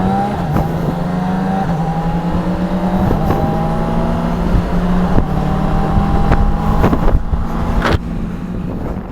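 Motorcycle engine running on the road, its pitch slowly rising as it accelerates, with a few short knocks. It drops away near the end.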